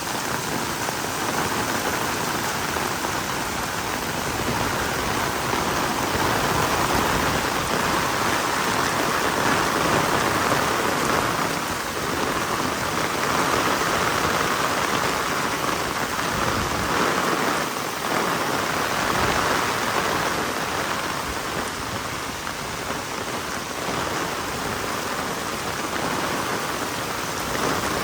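Heavy rain falling steadily, a dense even hiss that swells a little in the middle.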